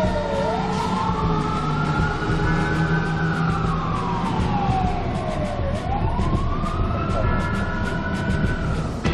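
Fire engine siren wailing, its pitch rising and falling slowly through about two cycles, over a low steady drone.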